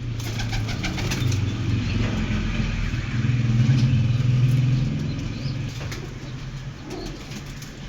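Domestic pigeons flapping their wings, a quick run of wingbeats in the first second and a half. A low rumble continues underneath and is loudest around the middle.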